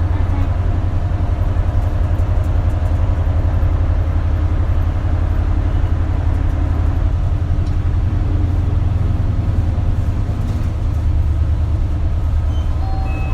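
Isuzu Erga (KL-LV280L1) city bus under way, its diesel engine and drivetrain giving a deep, steady drone heard from inside the cabin.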